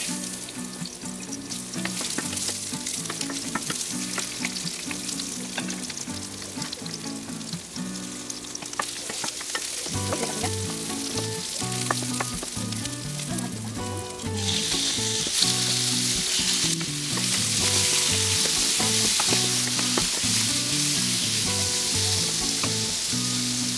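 Sliced onions and garlic sizzling in hot oil in a frying pan, stirred with a wooden spatula, over background music. The sizzle grows louder about halfway through, as raw chicken pieces go into the pan.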